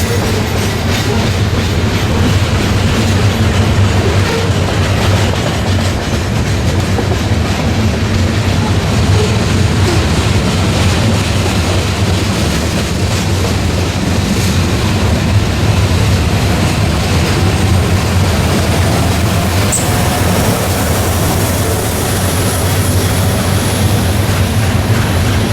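A train rolling past close by: a steady rumble of railcar wheels on the rails, with some clickety-clack.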